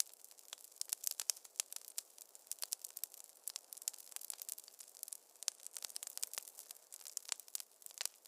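Wood fire in a fireplace crackling: a dense, irregular run of sharp pops and snaps over a faint hiss.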